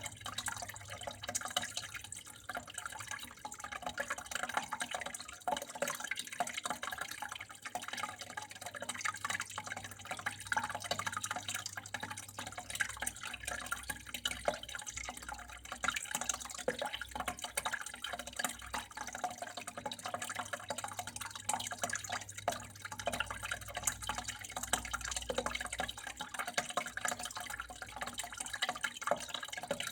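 Water flowing and dripping steadily, a continuous trickle with many small irregular drips and splashes.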